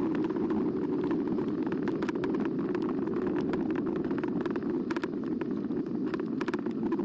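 Riding noise on a camera mounted on an eBike: a steady rush of wind and tyres, with many small clicks and rattles from the bike going over the path.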